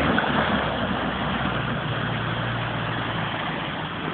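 Off-road 4x4 vehicle's engine running steadily with a low hum.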